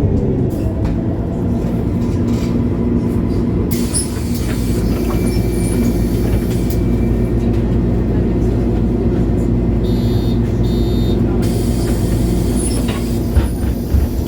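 The engine of a MAN A23 Lion's City G articulated city bus running steadily while driving, heard from inside the bus. A high hiss comes in twice, about four seconds in and again near the end.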